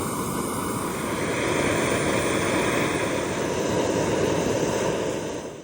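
Portable camp stove burner running at full flame, a steady rushing roar under a pot of water heating for coffee.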